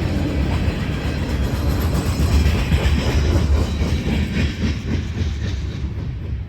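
Railroad cars rolling past with a steady low rumble of wheels on rail and a clickety-clack over the rail joints.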